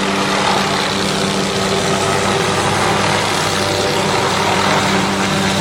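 Tree-trimming helicopter running close by: a steady, unbroken drone of rotor and engine with a constant low hum.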